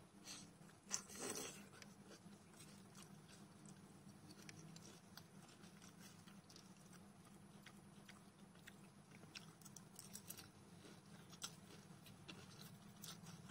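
Faint chewing and mouth sounds of a person eating instant noodles, with scattered light clicks and one short louder burst about a second in.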